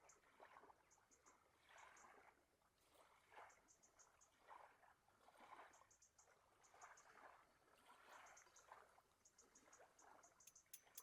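Faint water lapping in soft washes every second or so, with a high chirping in quick groups of three or four pulses repeating throughout.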